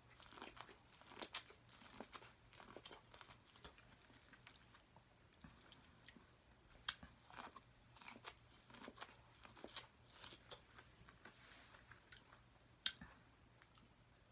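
Close-up mukbang eating sounds: food being bitten and chewed, with faint wet mouth clicks and small crunches scattered irregularly, the sharpest near the middle and near the end.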